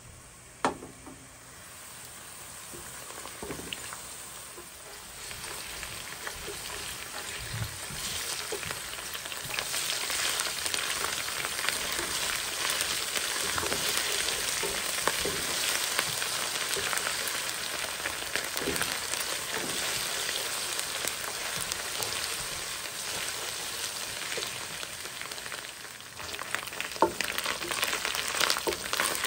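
Sliced onions sizzling as they fry in hot oil in a nonstick karai, the sizzle building over the first several seconds and then holding, with a spatula scraping and tapping the pan as they are stirred. A sharp knock about a second in; near the end the sizzle dips briefly and picks up again with more tapping.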